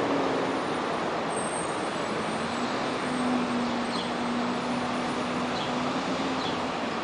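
City street traffic noise, with a steady low hum of a passing engine for a few seconds in the middle and a few faint short high chirps in the second half.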